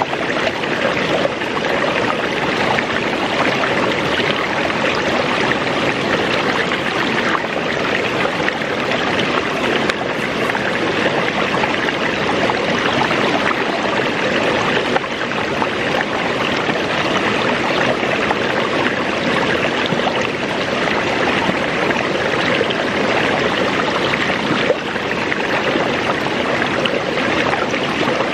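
Waterfall running: a steady, loud rush of falling and splashing water.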